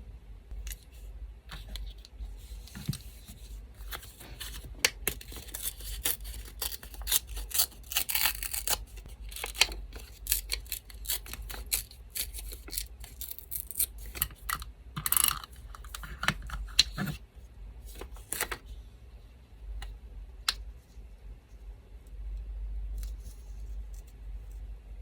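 Paper being handled and snipped with scissors: a dense run of crisp clicks and rustles that thins out after about 18 seconds. An electric fan's low steady hum sits underneath.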